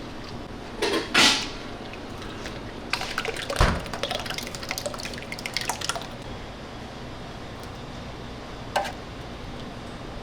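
Pizza-kitchen work sounds: a couple of brief handling noises about a second in, then a spell of light clicking and clatter with one thump, and one more short knock near the end, over a steady background hum.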